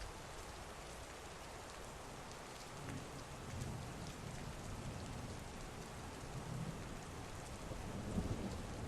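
Heavy rain falling steadily, with distant thunder rumbling in from about three seconds in and swelling again near the end.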